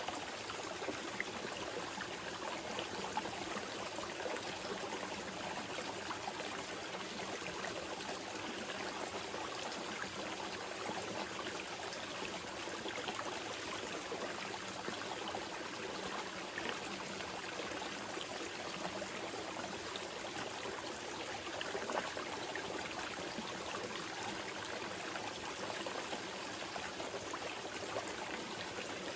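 Small mountain river flowing steadily over rocks, an even rushing with small splashes and trickles running through it.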